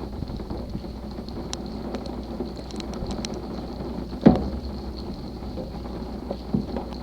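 Rain falling steadily in a thunderstorm, with scattered sharp drop ticks over a low rumble, and one short thump about four seconds in.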